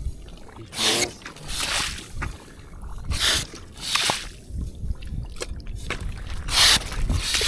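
Water splashing and sloshing in short, irregular bursts, about five of them, over a low steady rumble.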